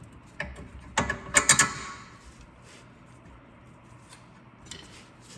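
Sharp metallic knocks and clinks from parts and tools during work on a car's front strut and spindle, with a cluster of strikes about a second in and a couple of fainter taps near the end.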